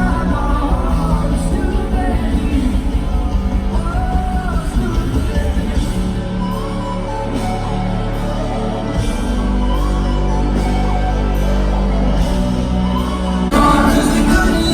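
Live pop concert music in a large hall: a band with heavy bass under wavering sung vocals, with some shouting. The music gets louder about a second before the end.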